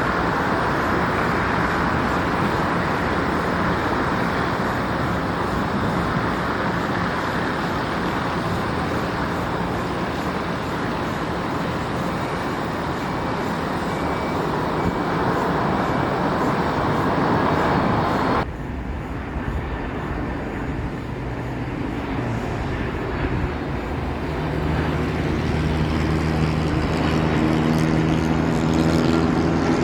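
Steady broad roar of road traffic and wind near an airport, cut off abruptly about two-thirds of the way through. After the cut, a twin-engine Boeing 767-400 airliner on landing approach is heard coming in: a low hum of several steady engine tones that grows louder near the end.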